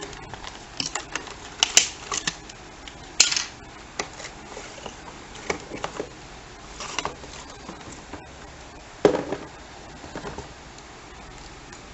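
Irregular clicks, knocks and short rustles of a toy lightsaber's plastic and cardboard packaging being handled and opened, with sharper knocks about two, three and nine seconds in.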